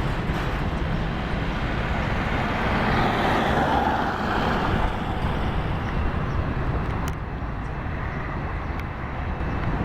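Steady outdoor engine rumble that swells about three to four seconds in and then eases off.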